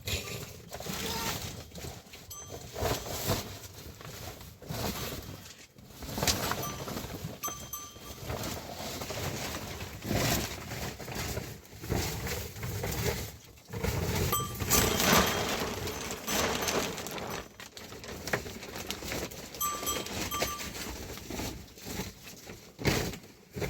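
Livestock moving about with bells ringing intermittently, over a broad rushing noise that swells and fades irregularly.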